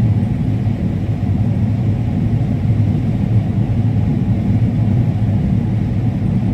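Combine harvester running steadily while cutting corn: a continuous low machine drone with no breaks or changes.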